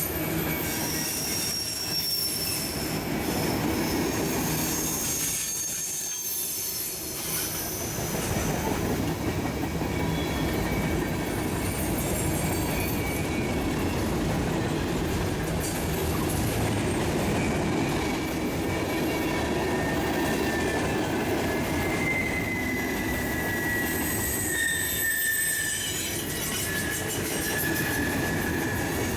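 Railroad cars rolling past with their steel wheels squealing on the rails in long, high-pitched tones that slowly drift in pitch, over a steady rumble.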